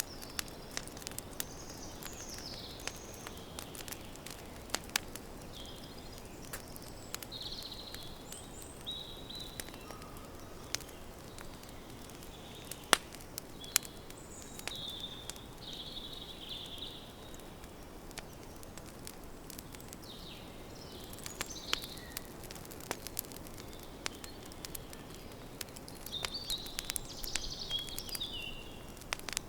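Wood campfire crackling, with irregular sharp pops over a steady low hiss. Birds chirp in short bursts at intervals in the background.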